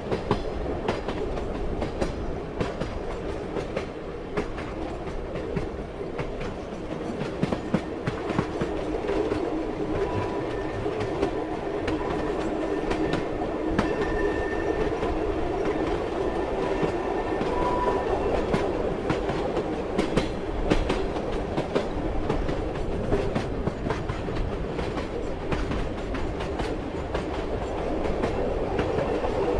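Passenger train running steadily, its wheels rumbling and clattering over the rail joints in a continual stream of irregular clicks. Faint high thin tones, like a light wheel squeal, come in about a third of the way through and fade before the middle.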